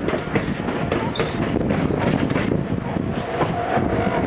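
Inside a Gakunan Railway 7000 series electric railcar running along the line: a steady rumble with the wheels clicking over the rail joints, and a faint steady whine coming in about three seconds in.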